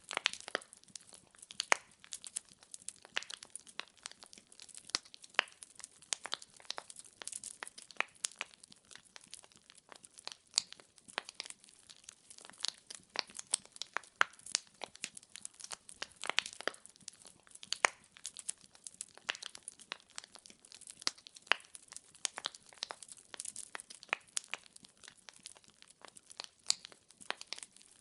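Firewood burning and crackling: many small, irregular pops and snaps, several a second, with no flame roar beneath them.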